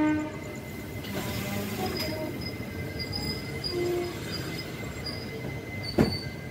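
A train horn blast cuts off just after the start. Then a train's running rumble follows, with faint high-pitched squeals coming and going and one sharp clank about six seconds in.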